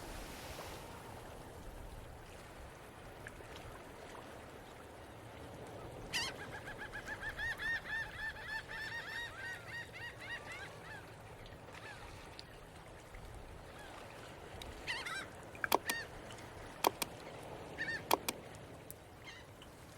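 Geese honking, a rapid run of repeated calls a few seconds in and a few more calls later, with several sharp clicks near the end over a low steady rumble.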